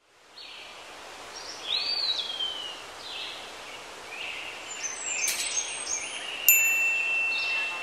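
Birds chirping and calling, with short gliding notes and a long steady whistle near the end, over a steady outdoor background hiss.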